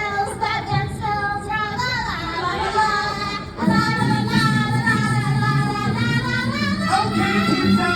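Singing with music: voices holding long, sliding notes, fuller and louder from about three and a half seconds in.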